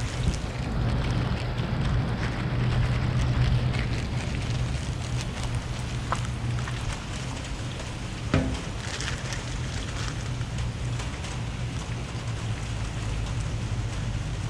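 A vehicle engine idling with a steady low hum under a hiss of rain, and a single knock about eight seconds in.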